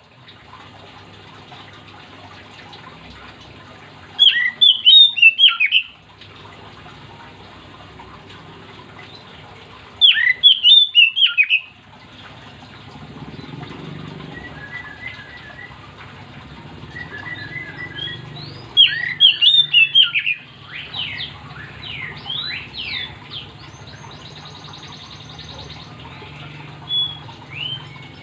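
Oriental magpie-robin (kacer) in full song: three loud, fast bursts of sweeping whistled notes, each about a second and a half long, several seconds apart, then softer scattered notes near the end over a faint steady hum.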